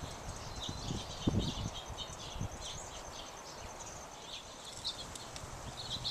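Small songbirds chirping and twittering, with a rapid high trill in the first half. A few low thumps on the microphone, the strongest just over a second in.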